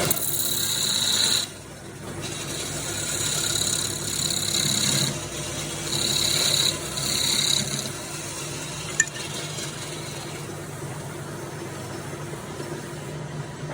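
Wood turning: a tool rasping and rubbing against wood spinning on a lathe, in about five scraping passes over the first eight seconds, over a steady low hum. After that the sound is quieter, with one sharp click about nine seconds in.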